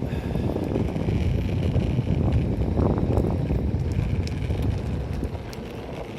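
Wind buffeting the microphone over the low rumble of an Enertion Raptor 2 electric skateboard rolling along, dying down near the end.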